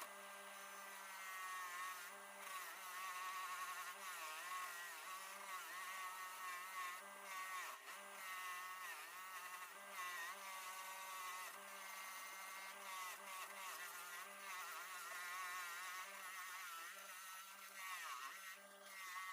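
Bench grinder running with a coarse wire wheel brushing rust and grime off a steel adjustable wrench. It is heard faintly as a steady motor hum under a buzzing whine whose pitch wavers up and down as the work is pressed against the wheel.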